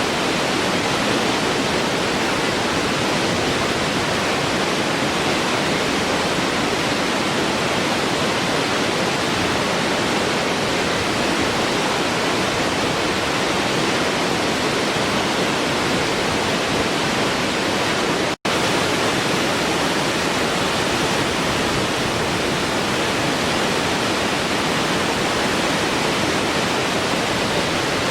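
Waterfall rushing in a steady, even roar of falling water. The sound cuts out for an instant about two-thirds of the way through, then carries on unchanged.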